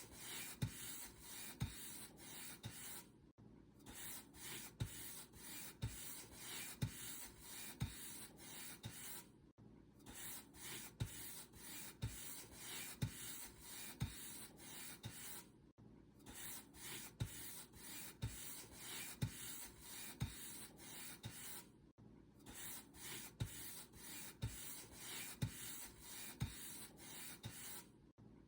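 Paint brush strokes: bristles dragged back and forth over a surface in quick, scratchy strokes, about two to three a second, with a brief pause about every six seconds.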